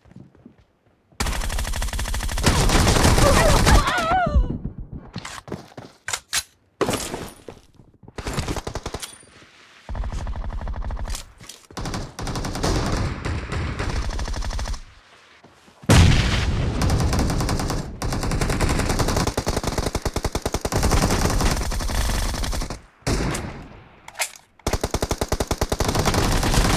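Video-game automatic gunfire: long bursts of rapid shots with short pauses between them, and a few short single bursts.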